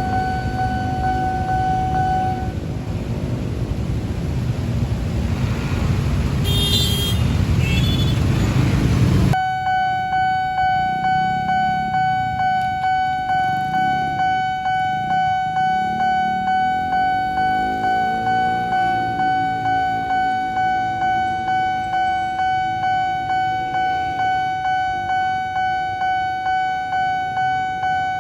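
Railway level crossing's electronic warning bell, one steady ringing tone pulsing a little more than once a second. For the first nine seconds a train passes with a heavy rumble and a brief high-pitched blast, then cuts off abruptly, leaving the bell sounding on its own while a motor vehicle passes with rising and falling engine pitch.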